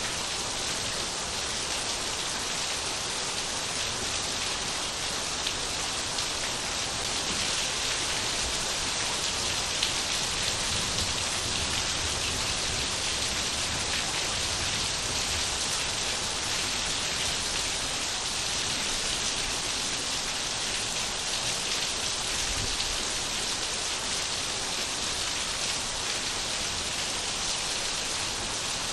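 Steady rain falling, drops pattering on surfaces with a constant hiss.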